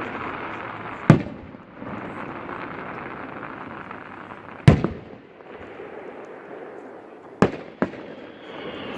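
Aerial fireworks going off: four sharp booms, one about a second in, one near the middle and two in quick succession near the end, with steady crackling noise in between.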